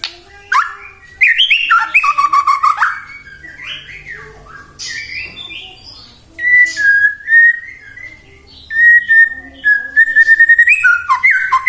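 White-rumped shama singing a loud, varied song of whistled phrases and sliding notes, broken by fast, very high rattling trills. In the second half it repeats a string of short, clear notes.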